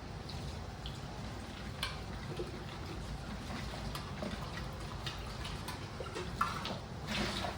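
Kitchen work with liquid sounds, water trickling and dripping, over a steady background. Light clicks and taps are scattered through it, with one sharper click about six and a half seconds in.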